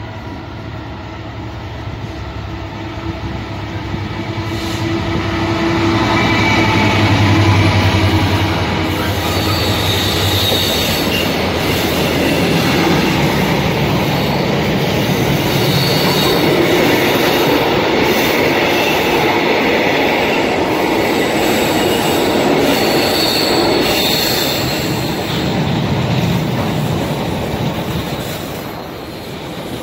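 Container freight train passing close by. The locomotive's engine hum is loudest about seven seconds in. A long string of container wagons then rumbles past with wheel clatter and intermittent high wheel squeal on the curved track.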